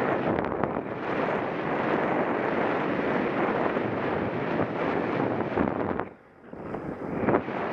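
Wind buffeting the microphone of a Contour action camera on a moving bicycle: a steady rush of noise that drops away briefly about six seconds in.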